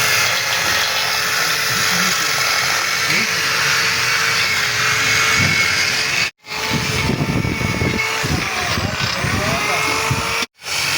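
A power tool running steadily, a loud even noise with a few held tones, working on a metal engine block. It cuts out abruptly twice, about six and ten seconds in.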